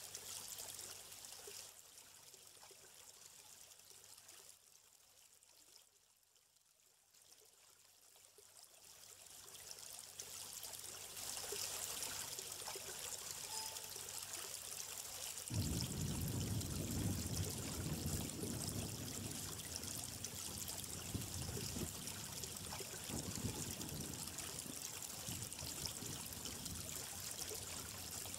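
Running water of a stream, trickling and pouring. The sound fades down to quiet about six seconds in, swells back, and about halfway through turns suddenly fuller and deeper.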